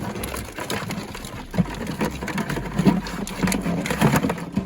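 Live crabs clattering in a bucket, their shells and legs clicking and knocking irregularly.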